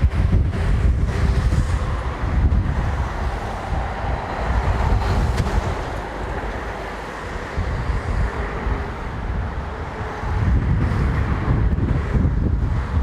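Korail diesel locomotive DEL7609 running during shunting, a steady engine rumble, with wind buffeting the microphone in gusts.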